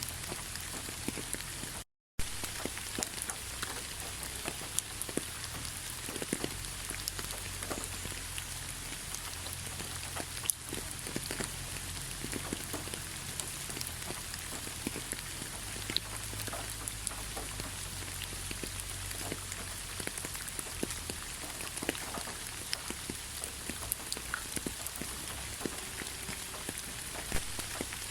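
Steady rain falling, a continuous hiss with many individual drops ticking and pattering on a surface. The sound cuts out completely for a split second about two seconds in, then resumes unchanged.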